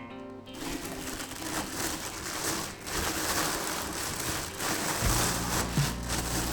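Plastic packaging crinkling and rustling as it is handled and pulled off, an uneven crackly hiss. Steady low tones come in near the end.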